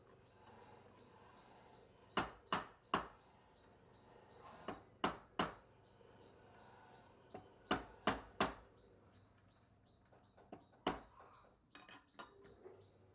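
Sharp knocks or taps, mostly in quick groups of three about every three seconds, with a few single knocks near the end.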